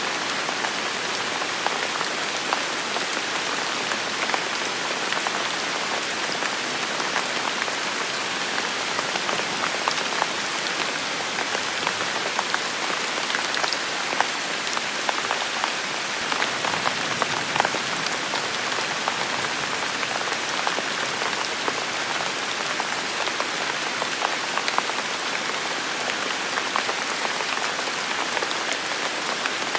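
Heavy, steady rain falling, a dense even hiss with many individual drops pattering on leaves and surfaces.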